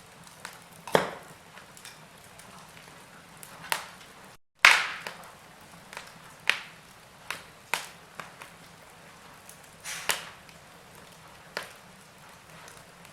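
Wood fire in a fireplace crackling, with irregular sharp pops and snaps over a faint steady hiss. A brief cut to silence comes about four seconds in, and the loudest pop follows right after it.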